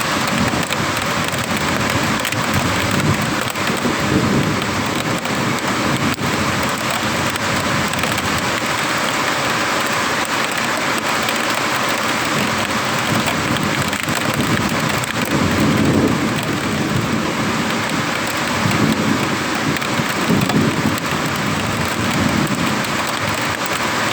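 Heavy thunderstorm rain pouring steadily, with low rolls of thunder swelling up several times.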